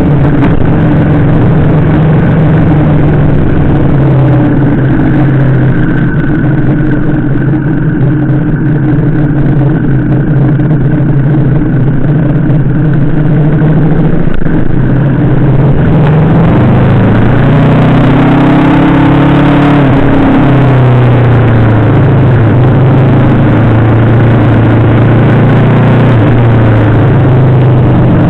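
Yamaha VMAX 1700's V4 engine running under way, a steady note that rises in pitch as it revs up about 17 seconds in, then falls back a few seconds later and holds steady.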